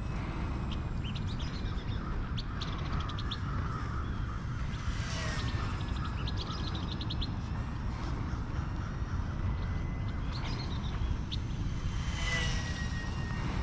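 Birds chirping in quick runs of high notes over a steady low rumble. Twice, about five seconds in and again near the end, the small electric motor of a micro RC warbird whines past, its pitch dropping as it goes by.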